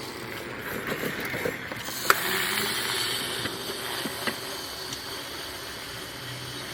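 Razor SX500 electric dirt bike riding along the street: a steady rushing noise with no engine note, swelling about two seconds in, with a few sharp clicks.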